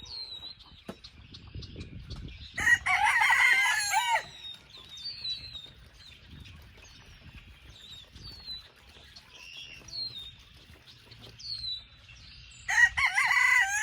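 Rooster crowing twice, a loud crow about three seconds in and another near the end, each lasting about a second and a half, with faint short high chirps from the flock in between.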